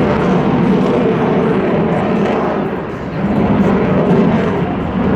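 Jet aircraft engine noise from a passing plane, a loud steady rush that dips briefly about three seconds in and then swells again.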